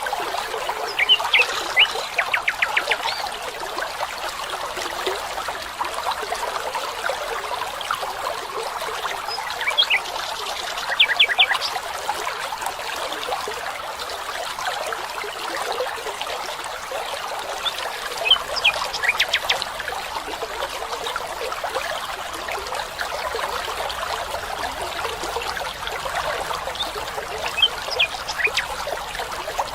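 Steady trickle of a small stream running over stones, with a bird calling in short bursts of quick high notes four times.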